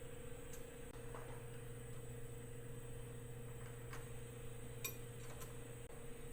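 A few light metallic clinks of steel tools and hardware being handled while a chuck is bolted on; the loudest, about five seconds in, rings briefly. A steady low machine hum runs underneath.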